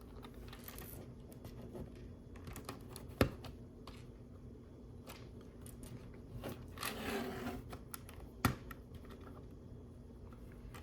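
LEGO plastic pieces being picked up and pressed onto a build, with faint scattered clicks and two sharper clicks, about three seconds in and about eight and a half seconds in. A short rustle of pieces being sorted comes around seven seconds in.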